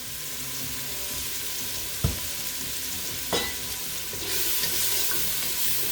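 Chopped onion, celery and garlic sizzling in hot coconut oil in a large pot, with a sharp knock about two seconds in and a shorter click a second later as the food is stirred. The sizzle gets louder about four seconds in.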